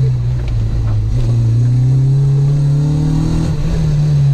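Car engine heard from inside the cabin under hard acceleration. The revs climb steadily, then dip briefly about three and a half seconds in before holding steady.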